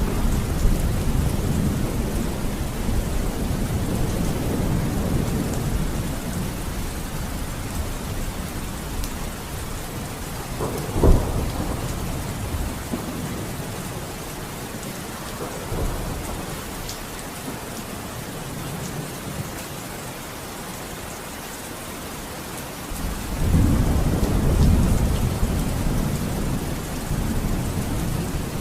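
Steady rain with rolling thunder. The low rumble dies away over the first half, a brief sharp crack comes partway through, and a fresh, louder rumble swells near the end.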